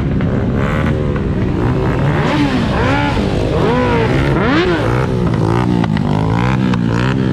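Several motorcycle engines running close by, with revs rising and falling over and over as riders pass.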